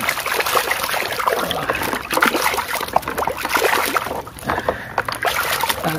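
Water splashing and sloshing in a plastic tub as a hand swishes a muddy plastic toy around to wash it, briefly easing off about four seconds in.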